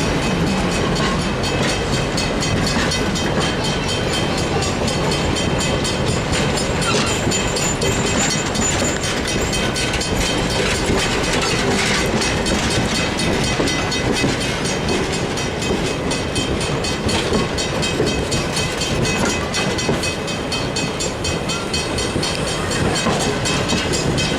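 A train running along the track, with a steady rumble and a constant clatter of wheels over the rails.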